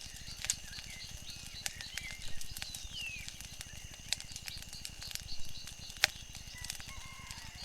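Wood fire crackling, with irregular sharp pops, the loudest about six seconds in, over a steady low rumble. A few short chirps glide through it.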